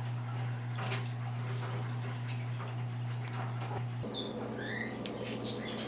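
A few short, high bird chirps and squeaks from a pet parrot, with scattered light clicks, over a steady low electrical hum.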